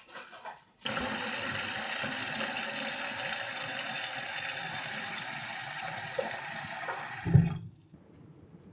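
Water running steadily from a tap for about six and a half seconds, then a dull knock as it is shut off suddenly.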